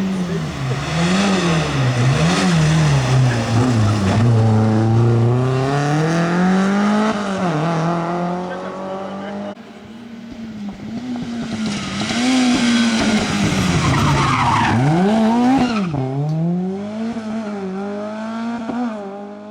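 Rally car engines revving hard, the pitch climbing and dropping again and again through gear changes and lifts. A second car's run follows an abrupt cut about ten seconds in.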